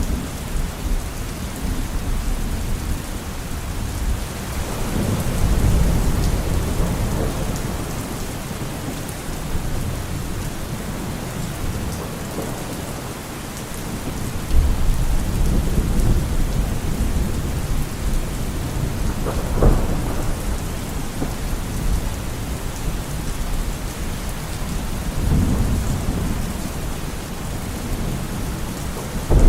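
Steady heavy rain with thunder rolling in low rumbles several times, and one sharp crack of thunder about two-thirds of the way in.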